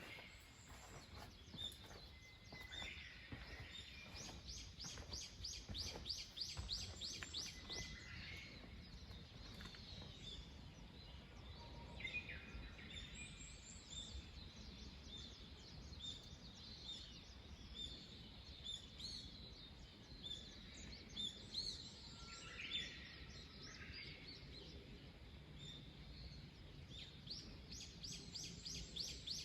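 Wild birds singing and calling, faint. One bird gives a fast run of repeated rising notes, about three a second, from about four seconds in and again near the end.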